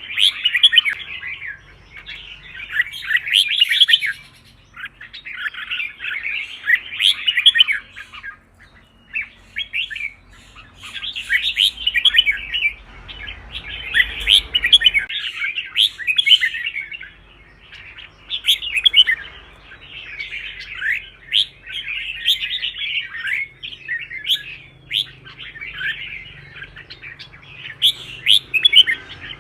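Red-whiskered bulbul song: quick, warbling chirpy phrases of a second or two each, repeated almost without pause.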